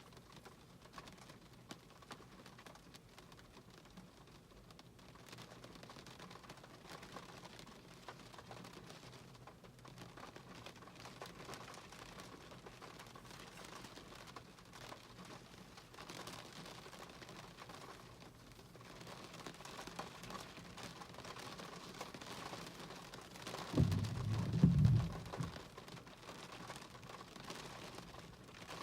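Rain pattering, heard as a fine crackle of many small drops that grows somewhat heavier in the second half, with a brief loud low rumble a few seconds before the end.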